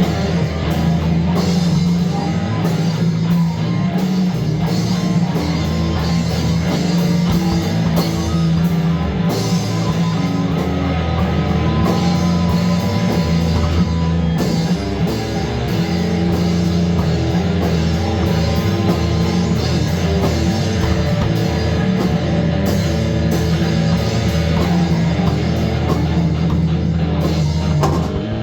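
Loud rock music in a heavy metal style, with distorted electric guitar and a drum kit playing steadily.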